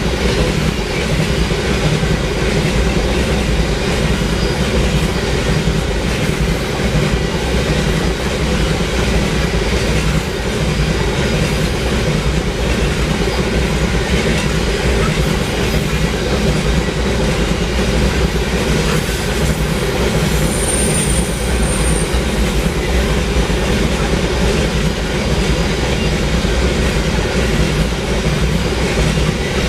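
Loaded iron ore cars of a long freight train rolling past, a steady loud rumble of steel wheels on rail with a clickety-clack over the joints. A brief high-pitched wheel squeal about two-thirds through.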